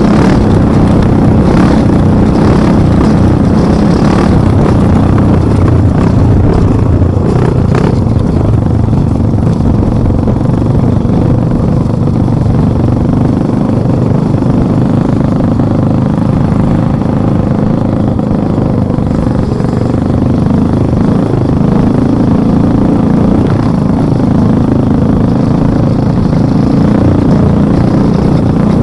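A motor vehicle's engine running steadily and loudly while under way, its pitch shifting slightly. A few brief knocks or clatters come in the first several seconds.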